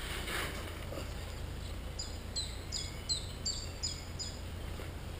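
A small songbird singing a run of about seven identical high notes, about three a second, starting about two seconds in, after a soft rustle at the start.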